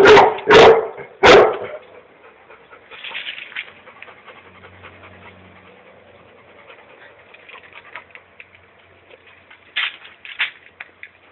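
A dog barking: three loud barks in quick succession in the first second and a half, softer sounds after, then two sharper barks near the end.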